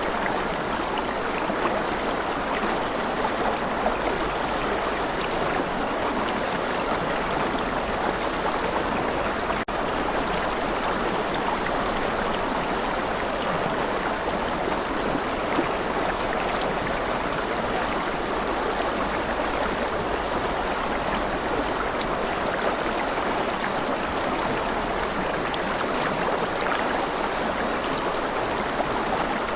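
A rushing river, its water making a steady, unbroken rush.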